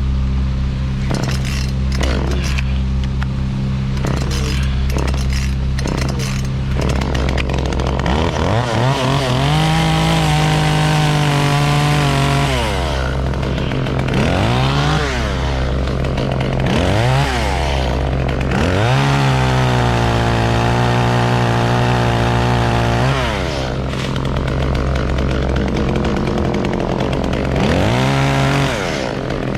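Chainsaw repeatedly revved up and held at full throttle for a few seconds at a time, then dropped back to idle. A steady low engine hum runs underneath.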